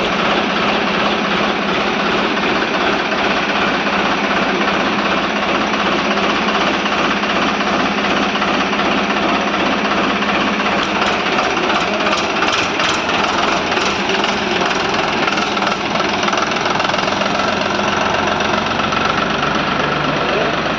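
Powertrac 439 tractor's diesel engine running steadily with a knocking clatter.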